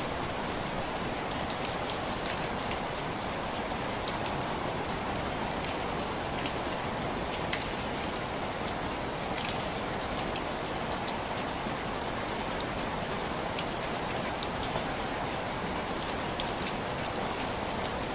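Steady rain on window glass, with single drops tapping sharply here and there over an even wash of rain.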